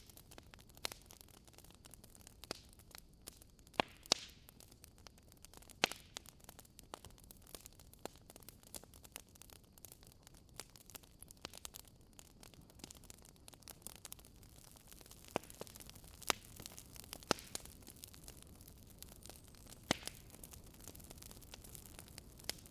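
Wood fire crackling in a fireplace: irregular sharp pops and snaps, a handful louder than the rest, over a faint steady hiss.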